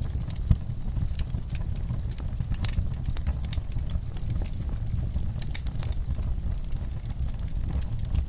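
Wood fire crackling in a fireplace: irregular sharp crackles and pops over a steady low rumble of the flames, with one louder pop about half a second in.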